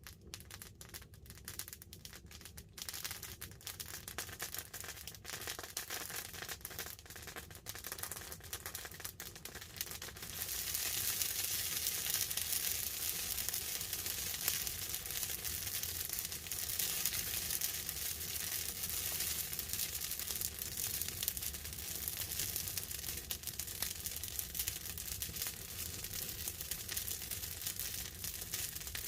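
Wood fire crackling with sharp pops. About ten seconds in, a dense hiss swells up and stays under the crackle.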